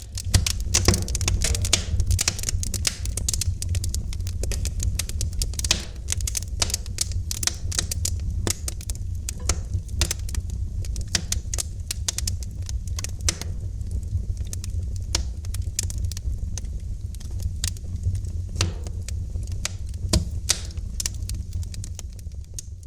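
Wood fire crackling in a fireplace: dense, irregular pops and snaps over a steady low rumble of the flames. It starts abruptly and fades out near the end.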